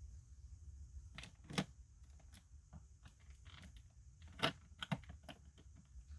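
Faint, irregular clicks and taps of the packaging and parts of a boxed sixth-scale action figure being handled during unboxing, two of them sharper, about a second and a half and four and a half seconds in.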